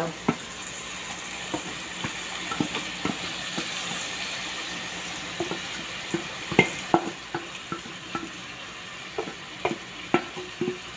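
Washed rice poured from a metal bowl into a pot of grated carrot, onion and garlic frying in oil, the frying sizzling steadily. A wooden spoon scrapes and knocks against the bowl to push the last grains out, giving a scattered run of sharp clicks and knocks.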